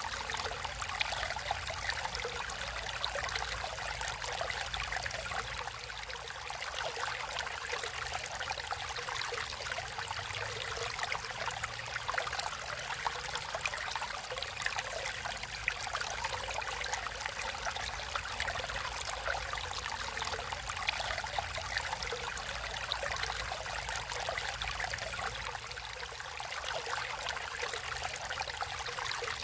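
Naturally flowing stream water running steadily, a continuous rush with many small flickering splashes and no pauses.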